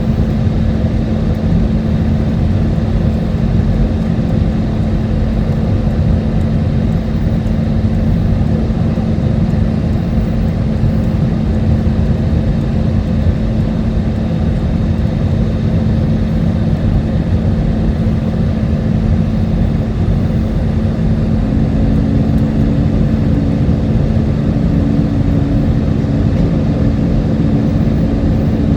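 Steady cabin noise of an Airbus A320neo in flight on approach, heard from a window seat: a constant rush of airflow and engine noise with a steady low hum. A second, slightly higher hum joins about two-thirds of the way through.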